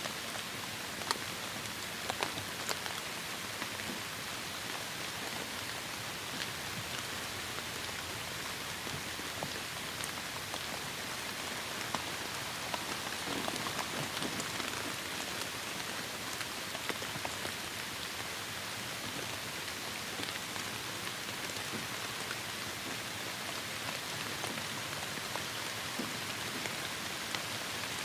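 Heavy rain falling steadily: a dense, even hiss with many scattered individual drop impacts.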